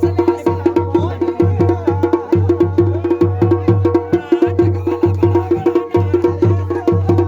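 Garhwali dhol and damau drums played together in a fast, dense, unbroken rhythm over a steady held tone.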